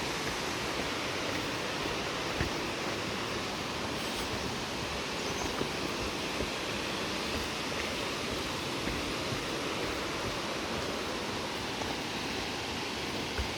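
Steady rush of a waterfall: an even hiss of falling water with no rises or breaks.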